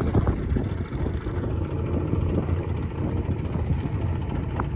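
Motorboat engine running steadily, a continuous low rumble.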